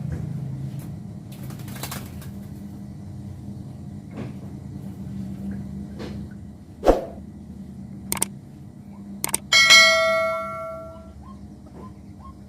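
A sharp knock, a couple of clicks, then a metallic clang that rings and fades over about a second and a half, like wire mesh or a metal fitting of a backyard bird aviary being struck. Faint short bird chirps come in over the ringing, over a low steady hum.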